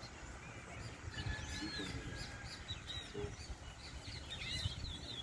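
Towa-towa seed finch singing in a song race: short warbled phrases and chirps, growing into a quicker run of phrases in the second half. Each song is tallied toward the bird's count.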